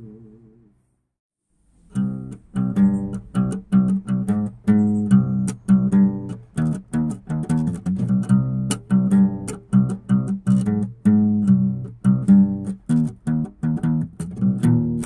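Instrumental music of plucked guitar notes. It drops out briefly about a second in, then the picked notes resume at a steady pace.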